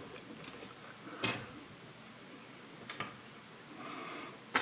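A few sharp, separate plastic clicks and knocks as fischertechnik parts are handled and pushed into place on the robot's gear train, the loudest about a second in.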